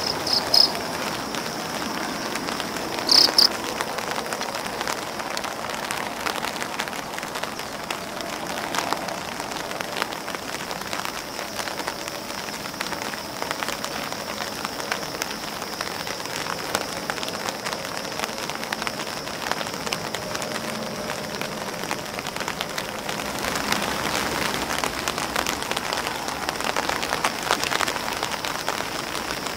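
Steady rain falling on an umbrella and grass leaves, a dense patter of individual drops. Two brief louder, high-pitched sounds come in the first few seconds, and the rain grows a little heavier near the end.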